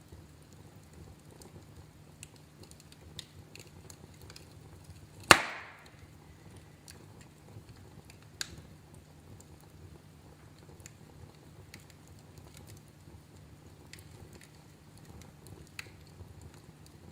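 Wood fire crackling in a fireplace: scattered small pops and ticks over a low steady rumble, with one loud sharp crack about five seconds in and a smaller pop a few seconds later.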